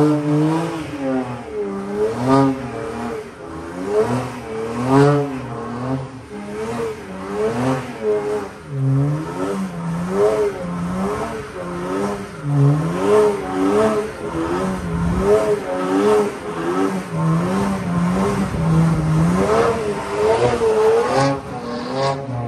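BMW N54 twin-turbo inline-six of a 2007 335i revved hard during a burnout, the engine note rising and falling about once a second, over the steady hiss of the rear tyres spinning on the pavement.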